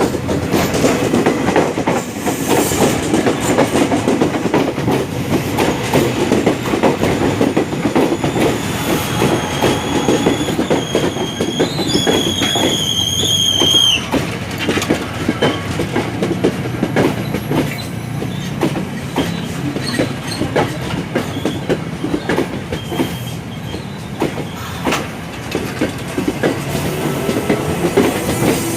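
Train running past, its wheels clattering steadily over the rail joints. About eight seconds in, a high squeal joins it and cuts off abruptly some six seconds later.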